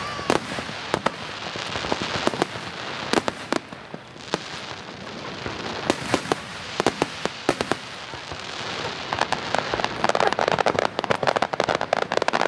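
Fireworks display: aerial shells bursting with scattered sharp bangs, and from about three-quarters of the way through a dense, rapid crackling.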